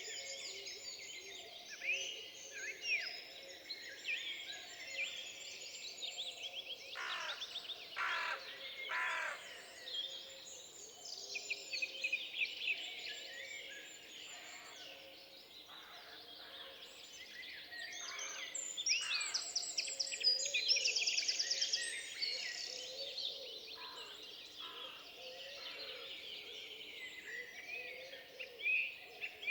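A chorus of forest birds, several at once, calling and singing in short chirps, whistles and rapid trills, busiest and loudest about two-thirds of the way through.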